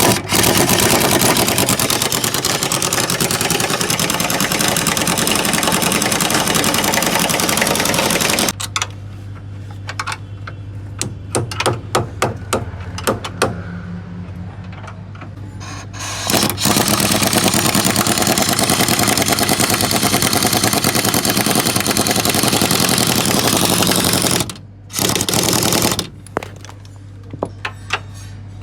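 Pneumatic impact wrench hammering in three long runs, the first two about eight seconds each, with scattered metal clanks and knocks between them.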